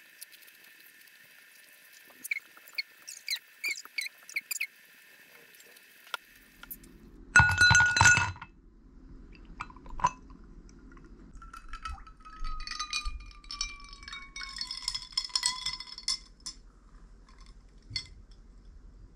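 Glassware and dishes clinking: a series of light clinks, then one loud ringing clink about seven seconds in, and more clinking near the end.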